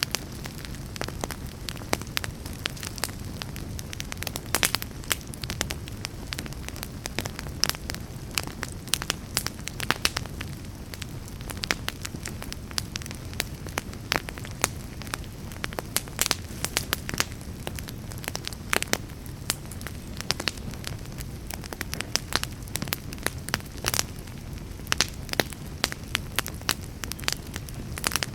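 Fire burning in a fireplace, with irregular sharp crackles and pops, several a second, over a steady low rumble of the flames.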